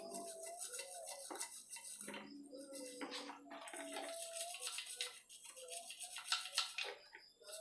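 A stiff brush scrubbing a motorcycle engine crankcase in rapid back-and-forth strokes, working at stubborn crust. A thin background melody plays underneath.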